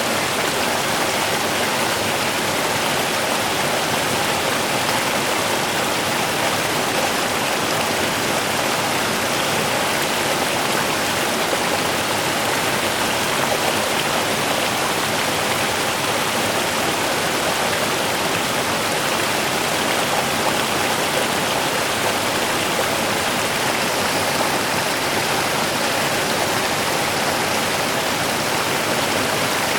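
A small river running, a steady rushing and splashing of water over stones that holds the same level throughout.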